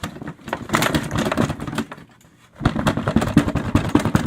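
The cloth outer bag of a Sanitaire SC887 upright vacuum being unhooked and handled, rustling and rattling with quick clicks in two bursts and a short pause in the middle.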